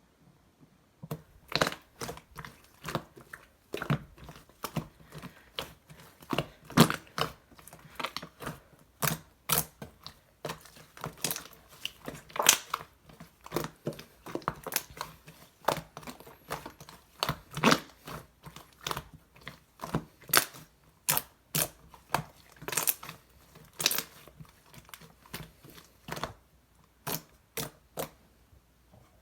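Slime being squished and pressed by hand, giving irregular sticky clicks and pops, often several a second. It starts about a second in.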